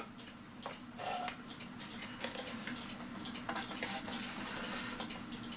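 Light, irregular clicks and taps of a cuckoo clock movement being handled and set in place after removal from its case, over a faint steady hum.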